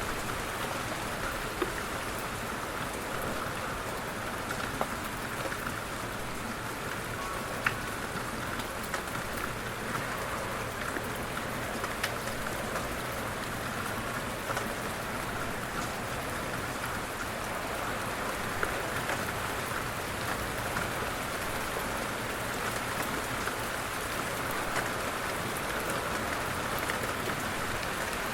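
Light rain falling steadily, a continuous hiss of rain with scattered sharp ticks of individual drops hitting a surface.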